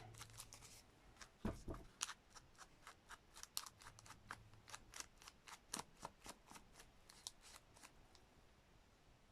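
Faint, irregular run of short scratchy ticks and snips from hand work on paper, about two or three a second, thinning out near the end.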